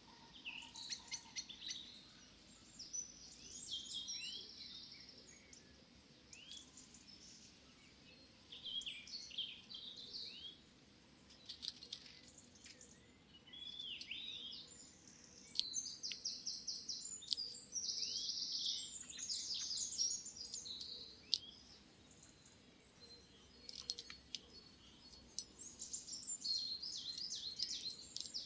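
Small garden birds chirping and singing in short bursts, with rapid trills in places, over a faint steady background hum.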